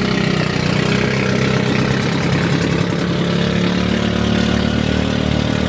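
Boat engine running steadily under way, with a constant low hum and a wash of noise over it.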